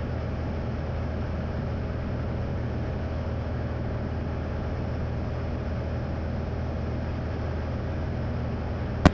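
Steady drone of a light single-engine piston airplane's engine and propeller heard from inside the cockpit, with the aircraft in its descent. A short click sounds near the end.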